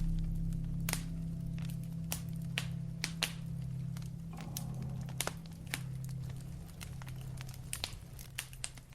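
Fireplace crackling with scattered sharp pops, over the last low notes of music fading away.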